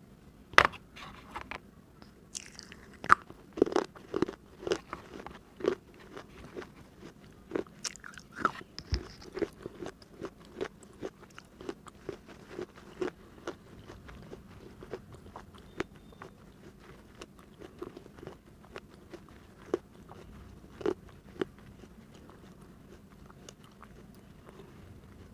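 Close-miked biting and chewing on pieces of a hard baked-clay diya (earthen lamp). Several loud, sharp crunches come in the first few seconds, then quicker, smaller crunching chews that thin out, with a couple of louder crunches later on.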